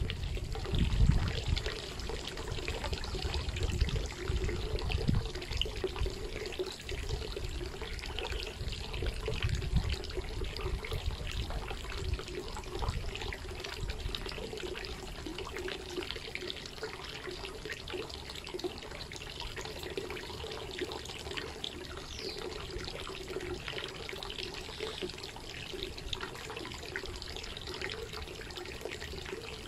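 Steady rain falling, dense patter of drops with water trickling and running off. A low rumble sits under it for the first few seconds.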